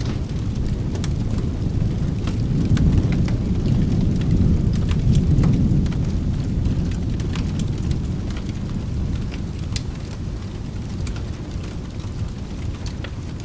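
Steady rain with a low rolling thunder rumble that swells about two seconds in and fades away through the second half, with scattered sharp clicks over the hiss.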